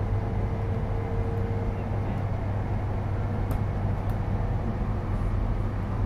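Steady running noise inside a Tohoku Shinkansen passenger car at speed: a constant low rumble with a broad rushing haze over it. A faint thin tone sounds over the first couple of seconds and then fades out.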